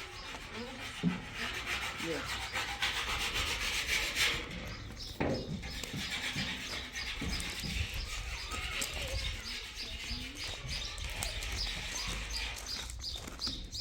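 Small birds chirping over and over, under faint talk from people. A rustling hiss runs for a few seconds near the start.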